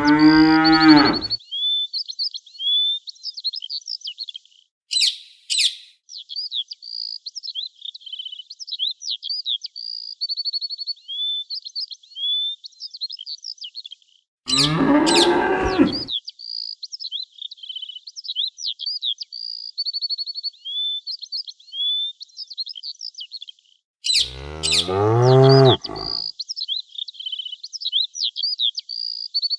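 A cow mooing three times, each moo a long low call of one to two seconds, about ten seconds apart, over steady high-pitched birdsong.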